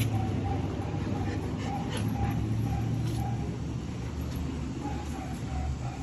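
Doberman puppy whining in a run of short, thin, repeated whimpers, pausing and starting again near the end, over a steady low hum.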